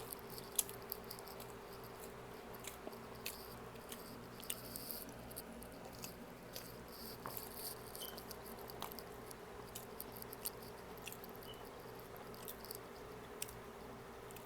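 A person chewing food close to the microphone, with soft wet mouth clicks and smacks scattered irregularly through, over a faint steady hum.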